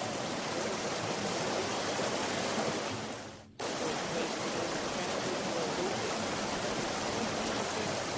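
Steady outdoor rushing noise, even across all pitches, that dips and then cuts back in sharply about three and a half seconds in.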